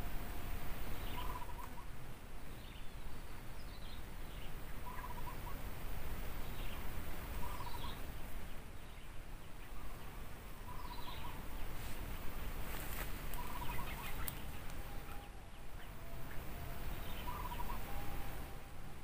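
A bird calling over and over, short calls repeated every second or two. A brief patter of clicks comes about two-thirds of the way through.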